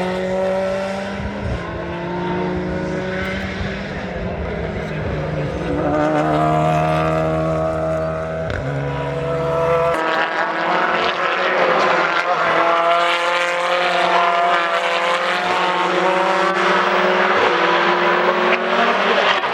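British Touring Car Championship race cars running on track, their engines revving up and falling away through the gears as they pass. The sound changes abruptly about halfway through, as if from one pass to another.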